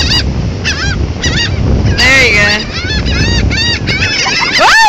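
A flock of birds calling over and over, many short rising-and-falling cries overlapping, with a louder, longer rising call near the end. A low rumble sits underneath until about four seconds in.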